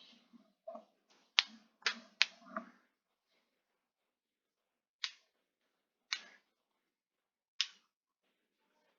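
Six sharp clicks at uneven spacing. Three come in the first three seconds over a faint low murmur, then three single clicks follow about a second or more apart.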